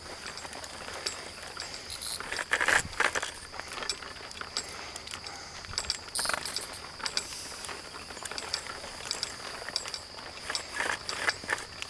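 Irregular crunching footsteps on a dry trail, heaviest a couple of seconds in, about six seconds in and near the end, over a steady high insect buzz.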